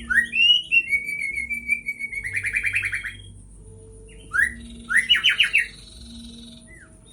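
White-rumped shama (murai batu) singing a provocation song: a rising whistle flowing into a long whistled note that breaks into a fast rattling trill, then after a short pause a second phrase of a rising note and another rattling trill. This is the kind of song keepers play to make a murai fired up and aggressive.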